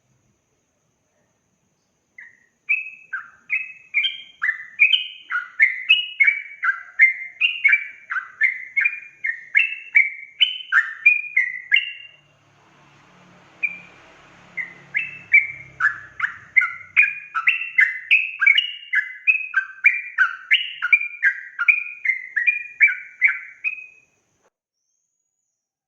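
Yellow-vented bulbul (trucukan) singing its fast 'ropel' song, a long string of bubbly, quickly rising and falling notes. It sings in two runs of about ten seconds each, with a short pause between them.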